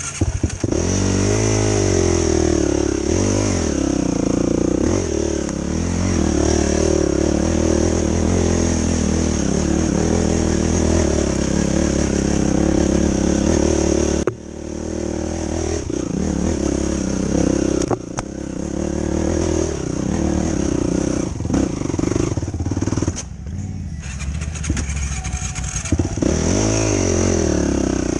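2005 Yamaha YFZ450 quad's single-cylinder four-stroke engine under way on a trail, its pitch rising and falling as the throttle is worked. The engine note drops off sharply about halfway through, then comes back up. It eases briefly a few more times before revving up again near the end.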